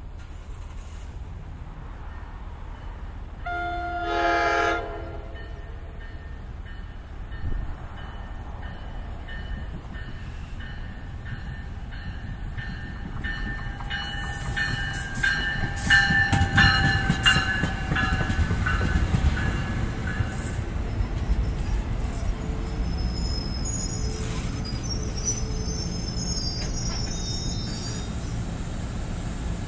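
NJ Transit passenger train sounding one short horn blast about four seconds in, then passing close by. It makes a rumble that peaks around the middle, with several high whining and squealing tones from the wheels and running gear, and thinner high squeals near the end.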